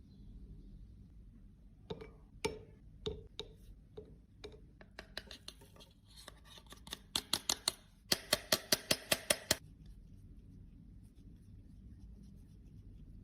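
Sharp clicks and snips from small hand tools worked close to the microphone. They are scattered at first, come thicker after a few seconds, then run fast and even at about seven a second before stopping about two-thirds of the way through.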